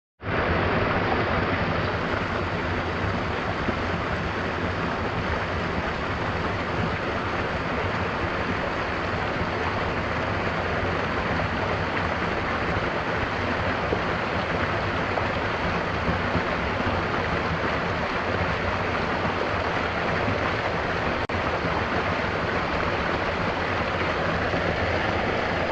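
Steady rush of a waterfall, an even roar of falling water that starts and stops abruptly.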